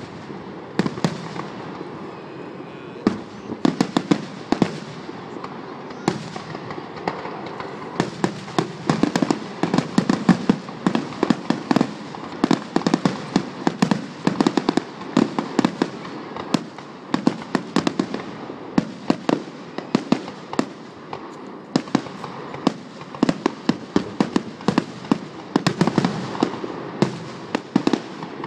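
Fireworks going off in a dense, continuous run of sharp pops and cracks over a low rumble. The bangs are sparser at first and come thick and fast from about eight seconds in.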